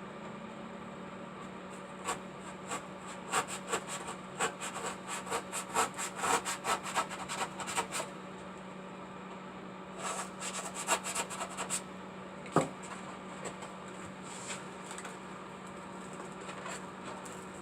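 A hand tool cutting and scraping into the waterfall piece as it is hollowed out a little at a time. The strokes come in two quick runs, the first of about six seconds and the second of about two, with one sharp click after them, over a steady low hum.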